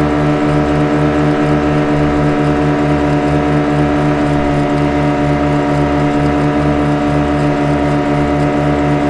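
Motorboat engine running at a steady speed, with an even low throb about four to five pulses a second.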